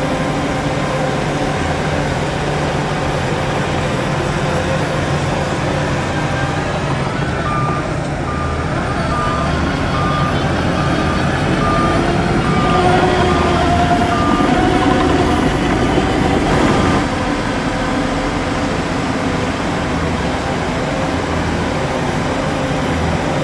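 Heavy diesel earthmoving machinery running steadily. A reversing alarm beeps at an even pace for about ten seconds in the middle, as a machine backs up.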